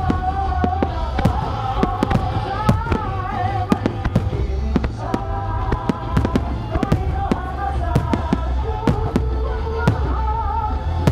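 Aerial fireworks shells bursting in a quick, irregular string of sharp bangs over music that carries a melody and a steady low bass.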